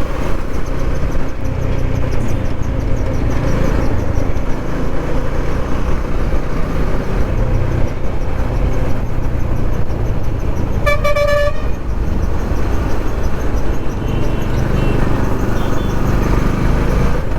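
Steady wind and road rumble of a motorcycle ride, with one short vehicle horn blast about two-thirds of the way through.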